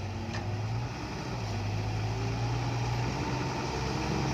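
Dump truck's diesel engine running steadily, with a low, even engine note.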